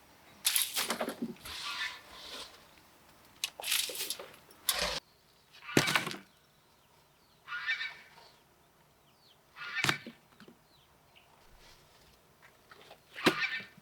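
Farm poultry calling in short, separate squawks and clucks every second or two, with a few sharp knocks among them.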